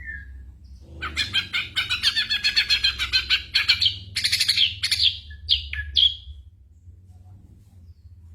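Ashy drongo singing: a short note, then a fast chattering run of many quick notes from about a second in, ending with a few separate whistles near six seconds.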